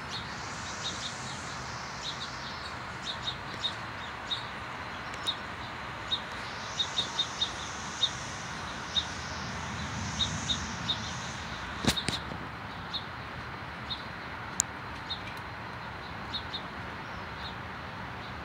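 Small birds chirping in the background: short high chirps, scattered and irregular, over a steady hiss. A single sharp click about twelve seconds in.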